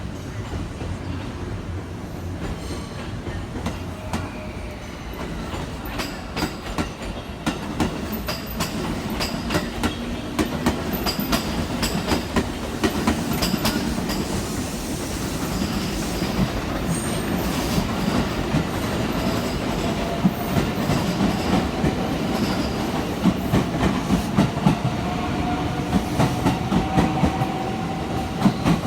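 Electric passenger train pulling out of a station: wheels clacking over rail joints and points at a quickening pace, over a steady rumble. A motor whine rises slowly in pitch from about halfway through as the train speeds up.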